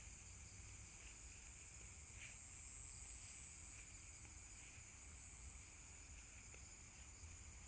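Insects chirring faintly and steadily in a continuous high-pitched drone, with a softer, slightly pulsing chirr lower down. A low rumble of wind on the microphone runs underneath.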